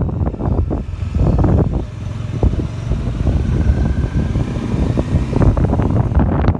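A motorcycle in motion heard from on the ride: the engine runs underneath wind buffeting a phone's microphone, which comes and goes in gusts.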